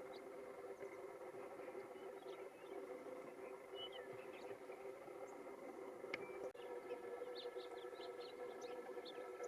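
Faint small-bird chirps, a few scattered early and more frequent in the second half, over a faint steady hum of sustained tones.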